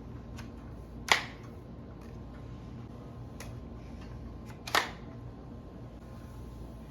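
Two sharp clicks about three and a half seconds apart, with a few fainter ticks between them, over a low steady hum.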